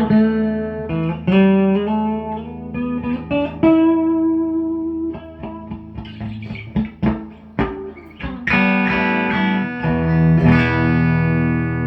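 Electric guitar playing a run of picked single notes, then ringing chords from about eight and a half seconds in that pulse evenly near the end.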